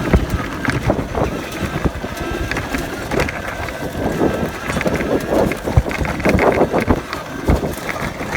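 Electric dirt bike riding over a rough trail: wind buffeting the microphone with irregular knocks and rattles of the bike over bumps, and no engine note.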